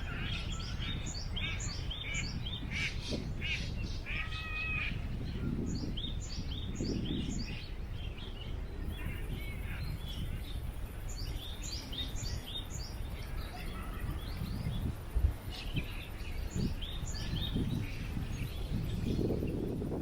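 Many small birds chirping and twittering in quick, overlapping calls, over a steady low rumble of wind. A single brief thump about fifteen seconds in.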